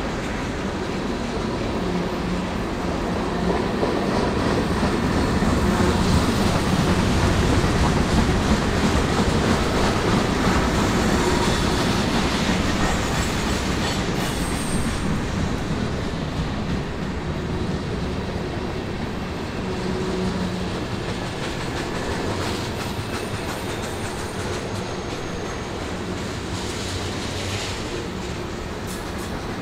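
Long freight train rolling past: a steady rumble and clatter of wagons on the rails that swells and then slowly eases, with brief high wheel squeals about halfway through and again near the end.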